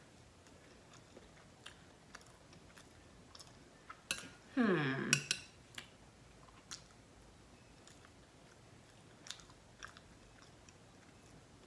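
Quiet chewing and mouth sounds of a person eating a coconut-flour pancake, with light scattered clicks of a fork against the glass plate. About four and a half seconds in, a short hummed "mm" falls in pitch.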